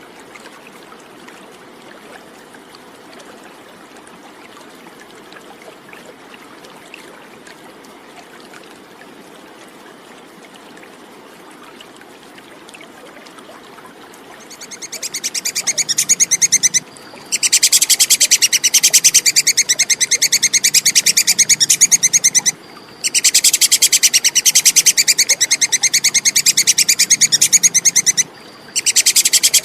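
Squirrel giving the rapid 'kekes' chattering call in long, fast-pulsed bouts. The bouts start about halfway in and break off briefly three times; before them only a faint steady hiss is heard.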